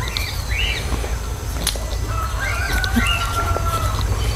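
Birds calling: a few short rising chirps, then a longer steady whistled note about halfway through, over a steady low rumble.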